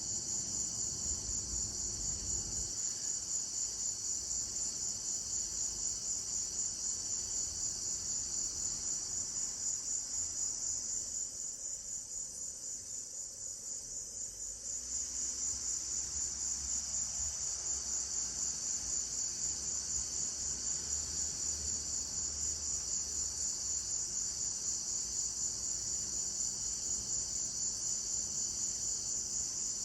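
A summer night insect chorus: a steady, high-pitched pulsing trill that carries on throughout, dipping a little quieter for a few seconds just before the middle.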